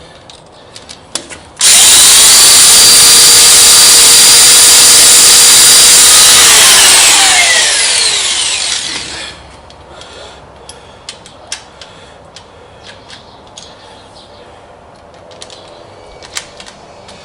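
Electric drill starts suddenly and runs at full speed for about five seconds, drilling a hole in the lathe carriage for a 10-32 tapped hole. It is then released and its whine falls in pitch as it spins down. Light clicks follow.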